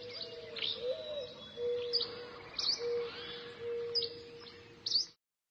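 Birds chirping and calling: short sharp chirps come every second or so over a lower, steady whistled note. The sound cuts off suddenly about five seconds in.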